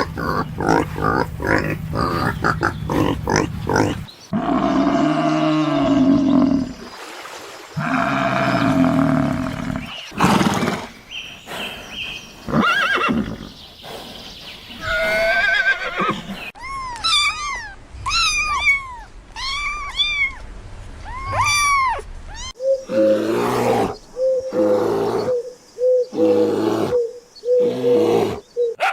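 A run of different animal calls cut one after another: rapid pulsing grunts at first, then deeper drawn-out calls, a string of high arching chirps in the middle, and short repeated calls near the end.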